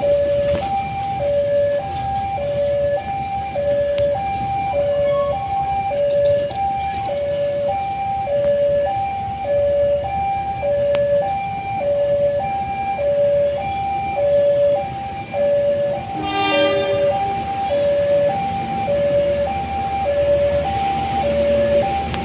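Indonesian railway level-crossing warning alarm sounding continuously: an electronic two-tone signal with a higher and a lower note taking turns about once a second, warning that a train is approaching. About two-thirds of the way through, a short horn blast sounds over it.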